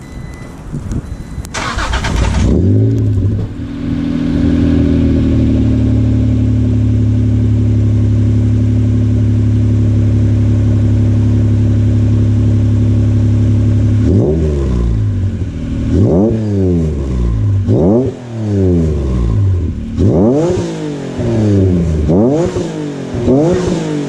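Acura NSX's V6 started through a newly fitted, inexpensive aftermarket exhaust: the starter cranks briefly and the engine catches about two seconds in, then settles to a steady idle. From about halfway through it is revved in a series of quick throttle blips, each rising and falling back.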